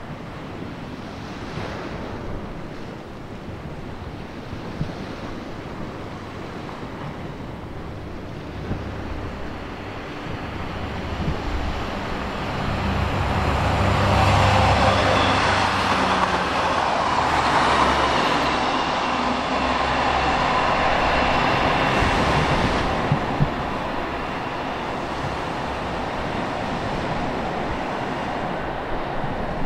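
A two-car Class 143 Pacer diesel multiple unit passing: its diesel engine hum and rail noise build from about ten seconds in, are loudest in the middle and then ease off. Underneath is a steady hiss of sea waves and wind on the microphone.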